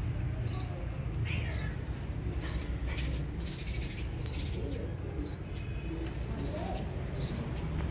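Small birds chirping: short, high chirps repeating every half second to a second, over a steady low background rumble.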